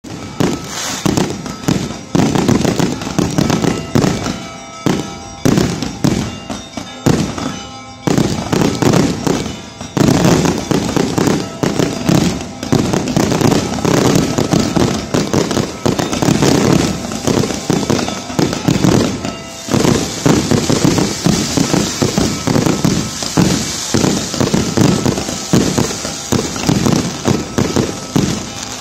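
Fireworks display: a rapid, continuous barrage of aerial shell bursts and crackling bangs, easing briefly twice.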